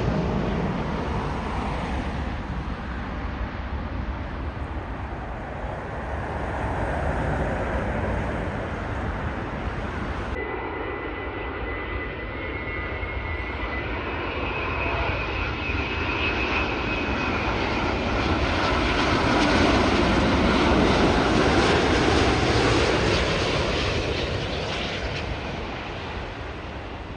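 Jet airliner engines passing close by, a steady noise with a faint high whine. It is loud at first, eases off, builds to a peak about three quarters of the way through, then fades away.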